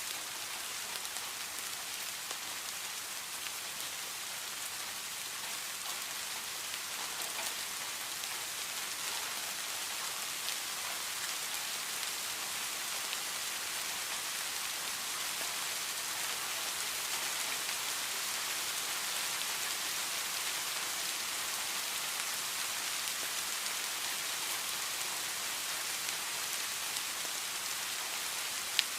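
Heavy rain falling steadily: a dense, even hiss of drops with scattered individual drop ticks. There is a single sharper tick near the end.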